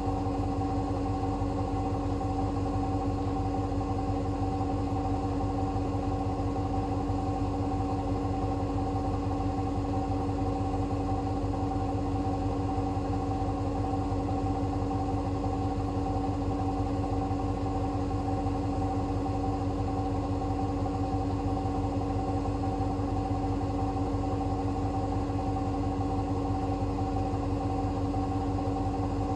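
Hoover H-WASH 500 washing machine running, with a steady motor hum and whine that holds one pitch throughout.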